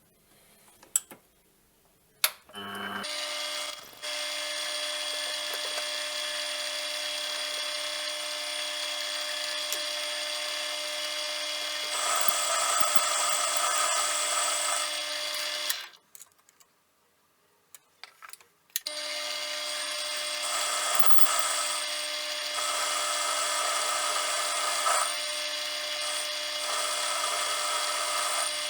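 Small metal-turning lathe running with a steady whine that grows louder at times. It is switched off about 16 s in and starts again about three seconds later, with a few clicks before each start.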